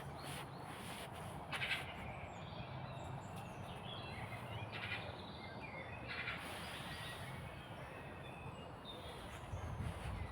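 Small songbirds chirping and calling now and then over a steady outdoor hush, with a faint low hum underneath.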